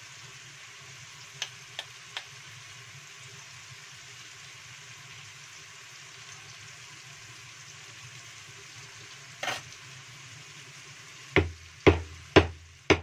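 Chili spice paste frying in a wok with a steady sizzle. A knife slicing hard palm sugar into the pan makes a few light clicks about a second and a half in. Near the end come four sharp knocks about half a second apart.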